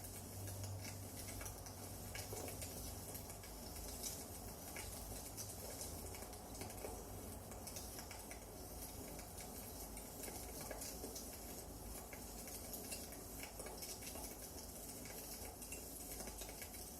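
Firewood burning in a fireplace, crackling with frequent small pops over a steady low hiss.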